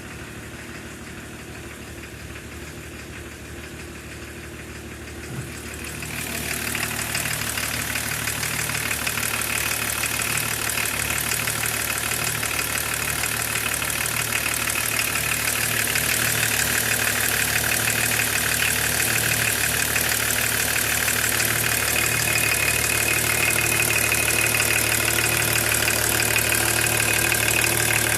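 BMW E36 325td's 2.5-litre straight-six turbodiesel idling steadily with diesel clatter. About six seconds in it becomes louder and brighter, the clatter much more prominent.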